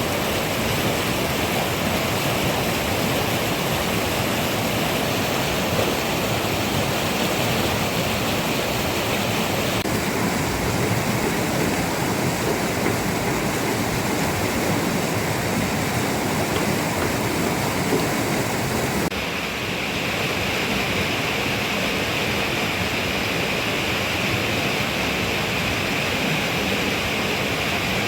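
Steady, loud rushing water noise, an even hiss with no distinct events, whose tone shifts abruptly about ten seconds in and again a little before twenty seconds.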